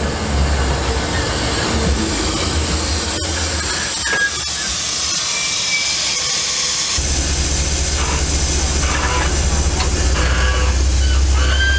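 MBTA commuter rail bilevel coaches rolling past, a steady noise of wheels on rails with short high wheel squeals a few times.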